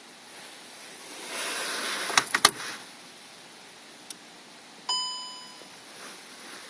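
Rustling and a few sharp clicks, then a single electronic chime that rings out and fades over about a second, such as a car's dashboard warning gong.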